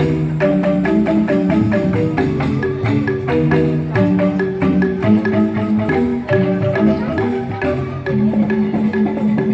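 Joged bumbung bamboo gamelan playing: bamboo tube xylophones struck with mallets in fast, interlocking melodic patterns over a steady percussive pulse.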